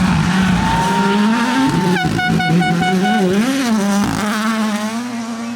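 Rally car engine revving hard, its pitch rising and falling as the throttle is worked, with a rapid stutter in the middle.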